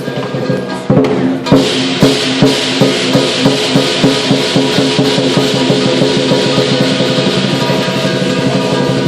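Lion dance percussion: a drum beating a steady pulse of about two and a half strokes a second, with cymbals clashing and a gong ringing. The cymbals come in strongly about a second and a half in.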